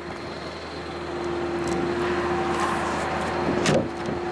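Truck engine running with the PTO-driven hydraulic pump engaged, a steady hum with a held tone. A single brief sharp sound comes near the end.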